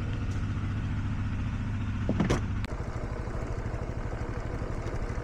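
An engine running steadily with a low hum. There is a short clatter a little over two seconds in, and then the engine's note changes.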